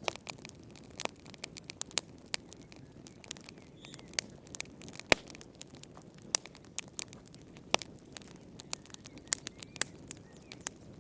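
Wood fire crackling in a fireplace: irregular sharp pops and snaps over a low steady rustle of the flames, with one louder pop about five seconds in.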